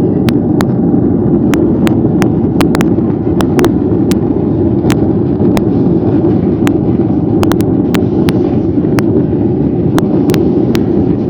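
Airliner cabin noise: a loud, steady rumble of the engines and the aircraft moving, with sharp clicks scattered throughout.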